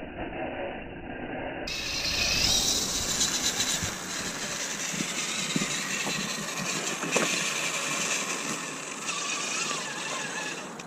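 Small electric motor and gears of an RC rock crawler whining faintly as it drives, with a few sharp clicks.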